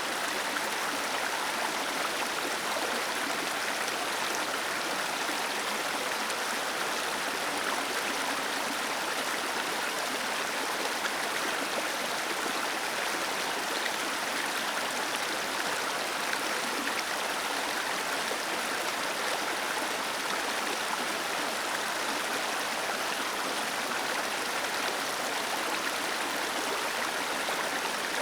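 Small waterfall cascading over stones, a steady, even rush of falling water.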